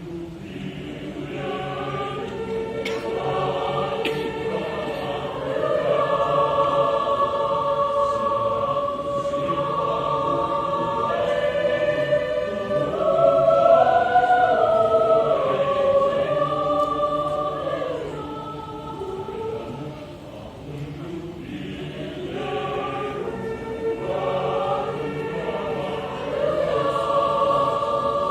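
Choir singing a hymn in long-held chords. The singing swells to its loudest about 14 seconds in, falls back around 20 seconds, and builds again near the end.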